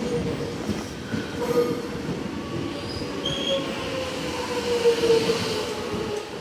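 Suburban electric train moving along the platform, its wheels squealing with a ringing tone that slowly falls in pitch over a steady rumble.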